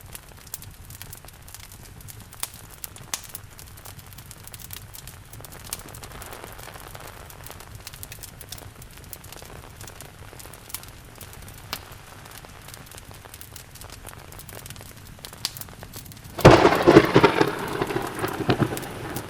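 Steady rain with a fireplace crackling, small sharp pops scattered through it. Near the end a loud thunderclap breaks in suddenly and rumbles away over a few seconds.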